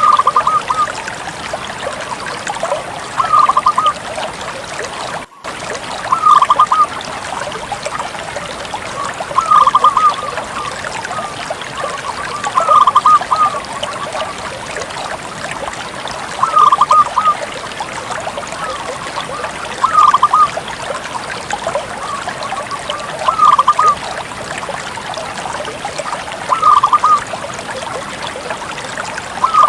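Bangkok-type zebra dove (perkutut) singing: a short phrase of quick staccato coos, repeated about every three seconds over a steady hiss. The sound cuts out for a moment about five seconds in.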